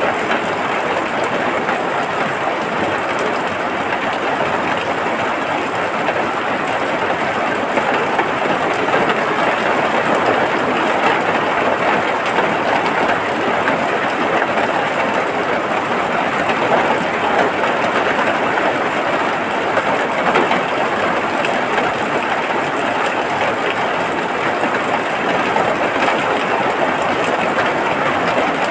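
Steady rain falling, a dense even hiss and patter with no breaks.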